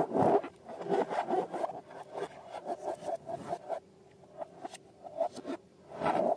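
Balloons and slime being handled, heard as irregular rubbing, scraping and squishing strokes. The strokes ease off into a quieter stretch past the middle and pick up again near the end.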